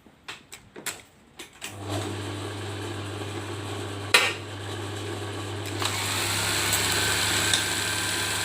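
A few clicks, then the Brother LH4-B814 buttonhole sewing machine starts about two seconds in and runs with a steady hum, with a single sharp clack about four seconds in. It is a test run of a machine whose buttonhole knife is failing to come down.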